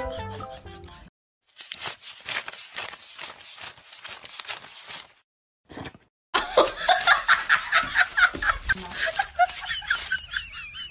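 A person laughing hard in rapid bursts, loudest in the second half, after a short bit of music that cuts off about a second in.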